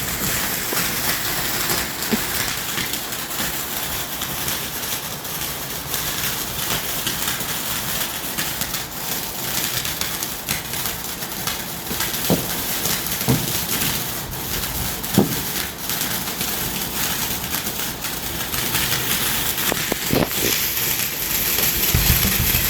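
Ground firework fountain hissing and crackling steadily as it sprays sparks.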